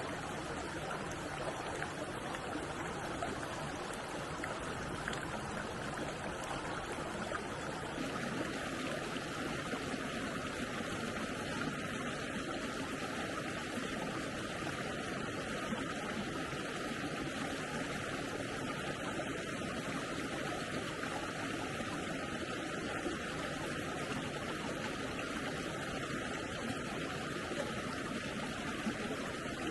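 A stream flowing, a steady even rush of running water.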